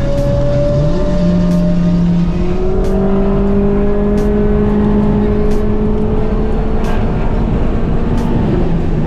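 Turbocharged Scion FR-S heard from inside the cabin while driving: a steady engine drone over road noise. The drone steps up in pitch about a second in, creeps slowly higher, then drops back near the end. A faint click comes about every second and a half.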